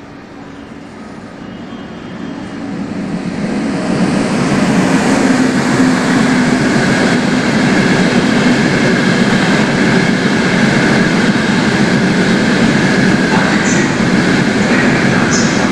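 Freight train headed by an FS E652 electric locomotive running through a station: a steady rumble of wheels on rails that swells over the first few seconds and then holds. Two brief high wheel squeaks come near the end.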